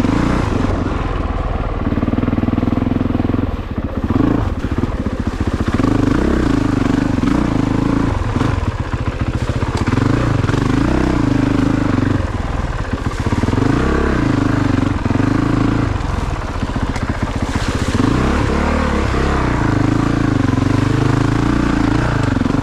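Honda CRF450RX dirt bike's single-cylinder four-stroke engine under way on a trail, revving up and dropping back over and over as the throttle is opened and closed every few seconds.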